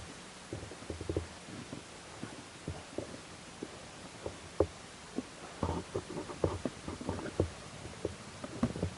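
Irregular light knocks, clicks and scrapes of hands handling a snowmobile's variator drive belt and clutch while fitting a new belt, over a steady hiss.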